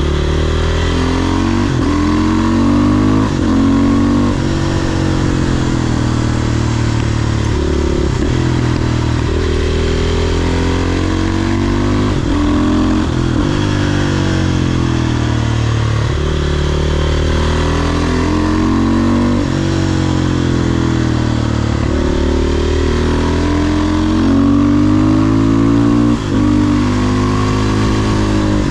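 500cc supermoto's single-cylinder engine under way, revving up and easing off again and again, its pitch rising and falling with a brief break at each gear change every few seconds.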